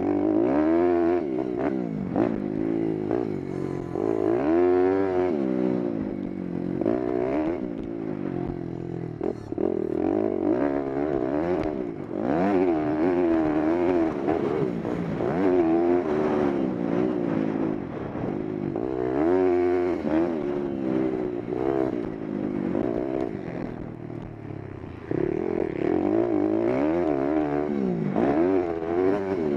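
Pitster Pro LXR pit bike's small single-cylinder four-stroke engine revving up and down as it is ridden around a track. The pitch climbs and falls every second or two through gears and corners, with a few brief drops in loudness.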